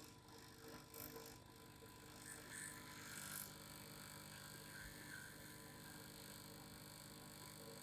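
Faint, steady vibrating hum with a few soft higher-pitched rustles about a second in and again between two and three and a half seconds in.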